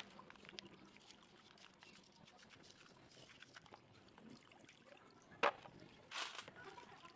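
Quiet, scattered light clicks and taps, with one sharper click about five and a half seconds in and a short rustle just after it.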